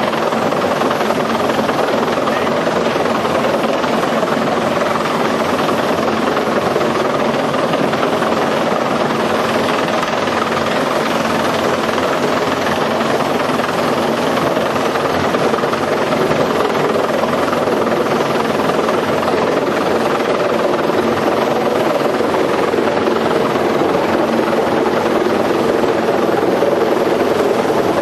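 Helicopter turbine and rotor running steadily in flight, heard on board: a loud, even drone with steady engine tones that does not change.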